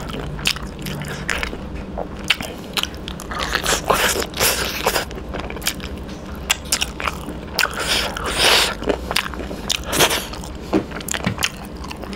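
Close-miked eating: biting and chewing fried chicken innards, a dense run of crunches and wet mouth clicks.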